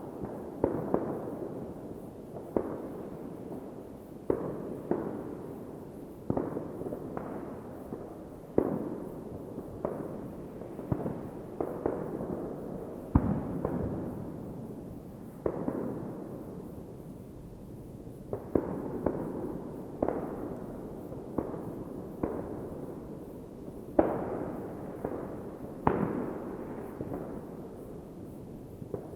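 New Year's Eve fireworks going off all around: irregular sharp bangs, often one or two a second, each echoing away, over a continuous rumble of more distant fireworks.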